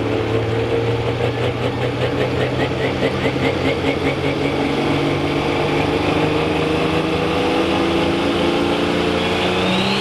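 Super stock pulling tractor's engine running at high, steady revs, its pitch creeping slowly upward, while the driver holds the clutch before the pull.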